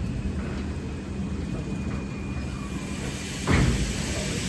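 Steam locomotive with a steady low rumble, then one loud exhaust chuff about three and a half seconds in, followed by hissing steam, as a locomotive starts to pull away slowly.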